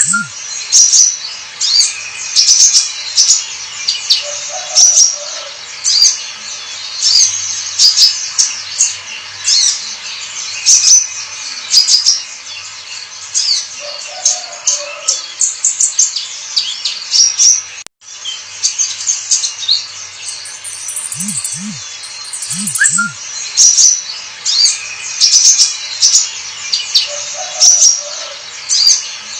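Sunbird (kolibri ninja) singing a loud, high, fast twittering song of rapid chirps in repeated phrases, with a brief cut a little past halfway.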